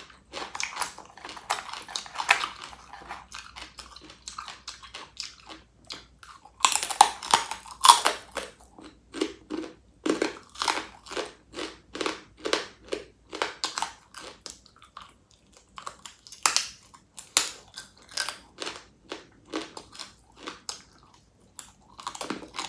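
Close-up eating sounds: crunchy bites and steady chewing, about two chews a second. Louder crunching comes about 7 s in and again near 17 s.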